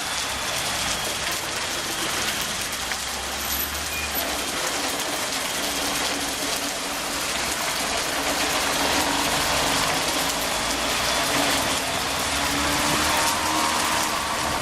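Heavy rain falling steadily, with a vehicle engine running underneath that grows a little louder in the second half.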